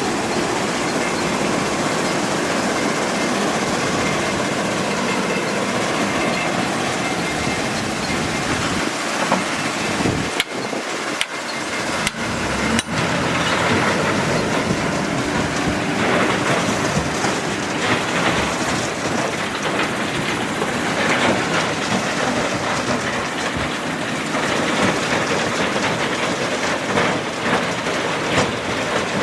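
Heavy earthmoving machinery running steadily, a constant rushing noise without a clear engine note, with a few sharp clicks about ten to thirteen seconds in.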